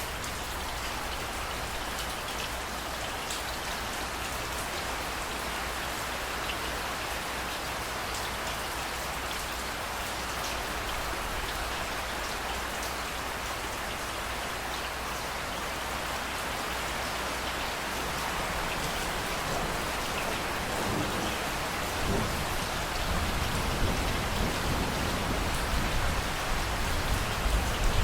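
Steady rain falling and pattering on surfaces, with a low rumble of thunder building up in the last third.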